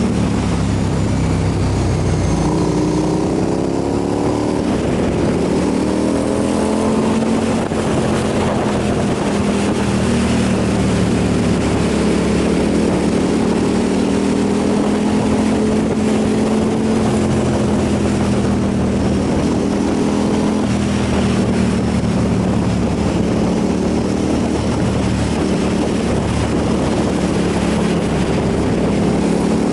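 Motorcycle engine running at road speed, with wind noise on the microphone. The engine pitch climbs a few seconds in and again near the end as it accelerates.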